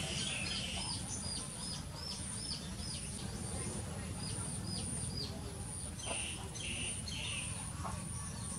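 A bird calling with short, high chirps repeated about three a second, in two runs with a pause near the middle, over a steady low hum.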